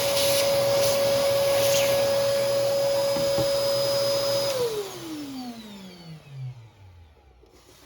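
Hoover Commercial PortaPower vacuum running with a steady high motor whine. It is switched off about four and a half seconds in, and the whine falls in pitch as the motor spins down over about two seconds.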